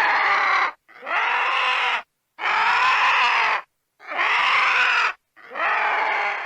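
Vulture screams: five harsh, raspy calls, each about a second long, with short pauses between them.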